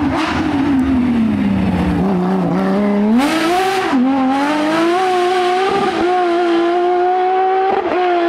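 Porsche 911 rally car's flat-six engine at high revs. The revs drop over about two seconds, then climb again as it accelerates and hold high, with a short dip near the end like a gearshift.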